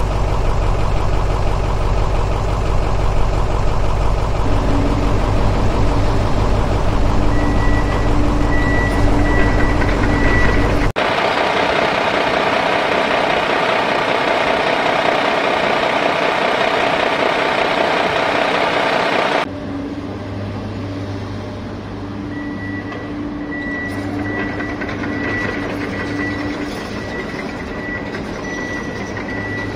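A toy RC excavator running with a steady mechanical drone. The sound changes abruptly twice, and a pulsing high tone comes and goes in the first and last parts.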